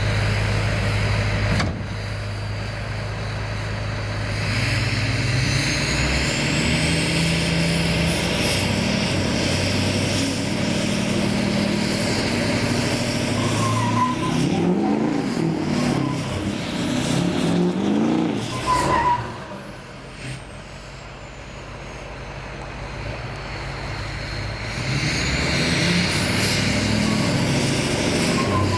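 Truck engine running hard, with a high whistle rising slowly over several seconds. About two-thirds of the way through, the engine drops off suddenly to a lower level. It then builds again, and the whistle rises once more near the end.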